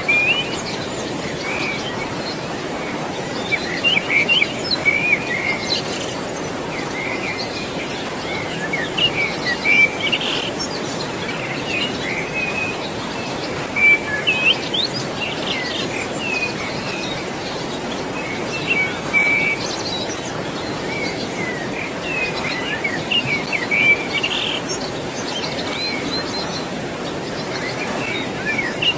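Small birds chirping and calling in short clusters every few seconds over a steady rush of flowing water.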